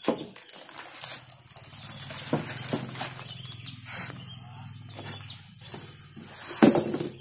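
Clicks, knocks and rustles as a boxed aftermarket motorcycle exhaust and its packaging are handled, with a louder knock near the end. A low steady hum runs underneath.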